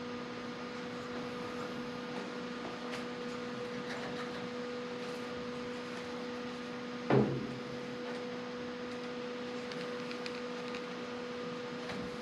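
Steady electrical hum with one sharp knock about seven seconds in.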